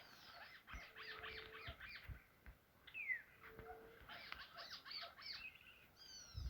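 Faint chirping and twittering of small wild birds: two bouts of quick short chirps, with a single falling whistle about three seconds in and two short low steady notes.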